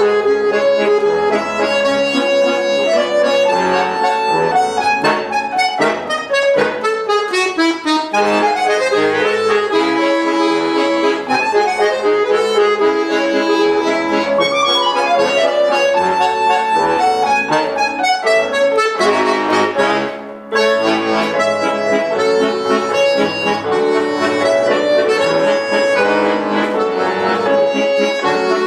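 Accordion playing a waltz with piano accompaniment: sustained reedy notes in moving melody lines, with a brief break in the sound about twenty seconds in.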